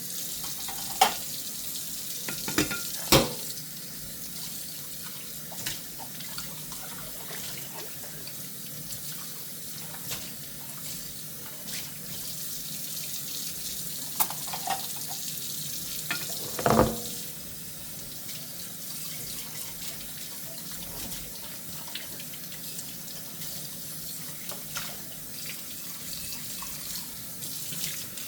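Kitchen tap running steadily into a sink while dishes are washed by hand, with occasional sharp clinks and knocks of dishes. The loudest knocks come a few seconds in and again a little past the middle.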